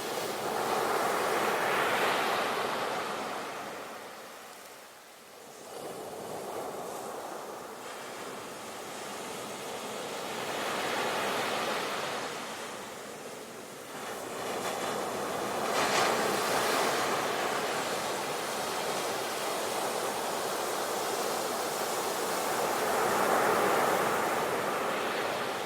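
Sea waves breaking and washing in, a rushing hiss that swells and falls away in about four surges.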